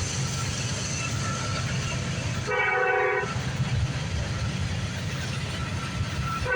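Train passing close by with a steady low rumble of wheels on rail. A single short blast of the locomotive's air horn comes about two and a half seconds in.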